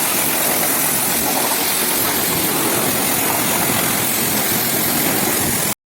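Pressure washer spraying, a loud steady hiss with the motor's rough rumble underneath, cutting off abruptly near the end.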